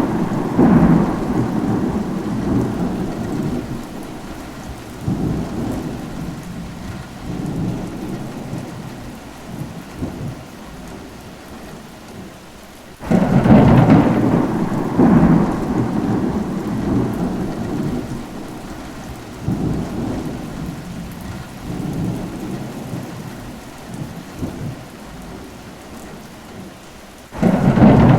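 Rain falling steadily with rolling thunder: a clap breaks about halfway through and rumbles away over several seconds, and another begins near the end. The opening seconds hold the fading rumble of a clap that started just before.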